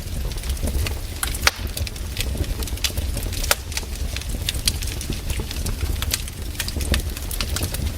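Wood campfire crackling: irregular sharp pops and snaps, several a second, over a low steady rumble of the flames.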